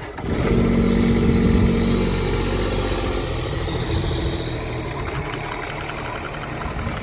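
Kubota U-10-2 mini excavator's three-cylinder diesel engine running. It comes in suddenly, is loudest for the first two seconds or so, then settles to a slightly lower, steady run.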